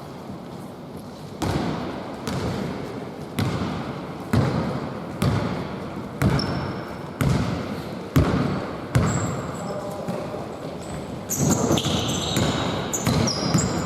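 A basketball being dribbled on a gym floor, about nine bounces at roughly one a second, then short high squeaks of sneakers on the court near the end.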